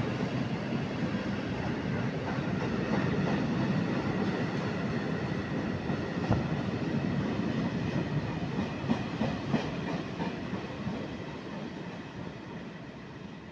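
Freight train of open-top steel wagons rolling past steadily, wheels rumbling with a few clicks over the rail joints. The last wagon goes by near the end and the sound fades away.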